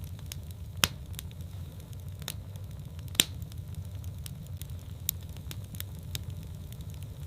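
Wood fire in a fireplace crackling: scattered sharp pops and snaps, the two loudest about a second in and about three seconds in, over a steady low rumble of the flames.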